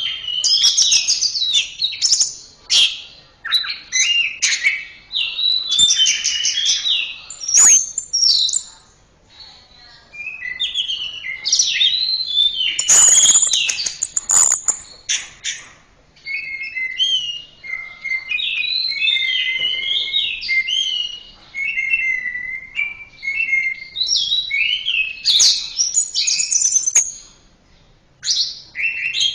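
Orange-headed thrush singing a long, rapid, varied song of whistled and warbled phrases. Near the middle there is a harsher, scratchier burst, and there are short pauses about nine seconds in and near the end.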